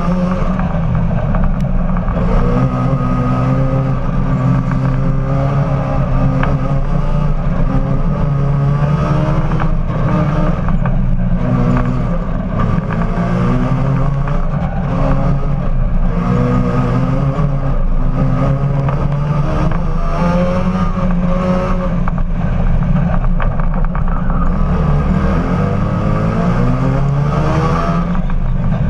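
Supercharged rotary engine of an Austin-Healey Sprite race car driven hard, heard from the cockpit. Its pitch climbs and falls back again and again as it revs up through the gears and drops off.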